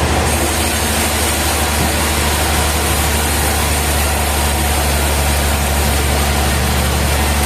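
Heavy sawmill machinery running steadily, a deep, even hum with no change in pitch.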